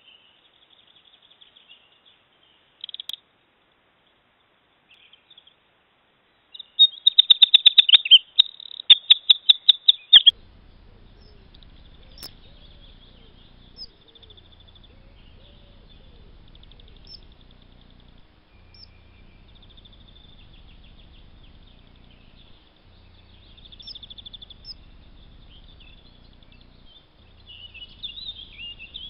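Bird calls: a rapid run of shrill, high calls about seven seconds in, lasting about three seconds, then scattered fainter high calls over a low steady background noise.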